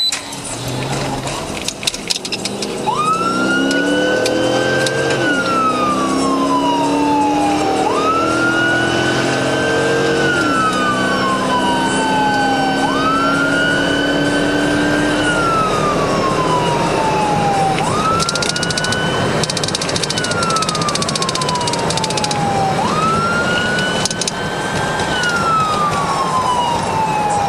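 Police car siren on wail, a quick rise then a slow fall, repeating about every five seconds. Under it in the first half, the engine revs up and drops back a couple of times as it accelerates through the gears.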